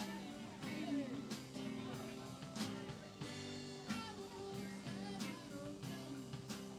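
Live band playing a rock-and-roll number, with electric guitar over bass and drums keeping a steady beat.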